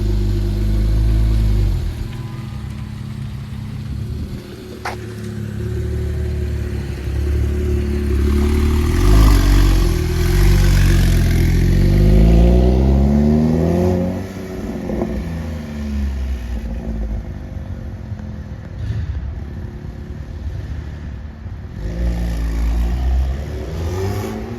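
Porsche 911 Turbo S twin-turbo flat-six running through a Speedtech 3-inch x-pipe and 100-cell catalytic converters. It idles and runs steadily, then revs up in a rising pitch about nine seconds in, falls away around fourteen seconds, and picks up again near the end.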